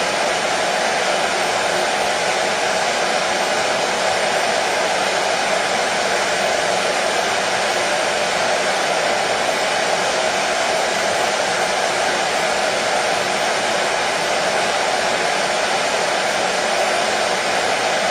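Hair dryer running steadily, a continuous even rush of air with no change in level.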